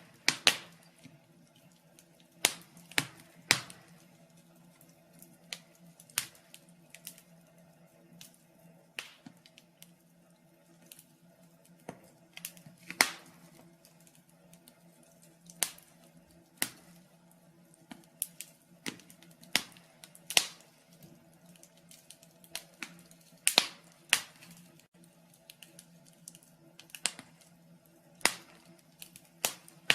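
Wood fire crackling in a fireplace: sharp pops and snaps at irregular intervals, roughly one a second, some much louder than others, over a faint steady low hum.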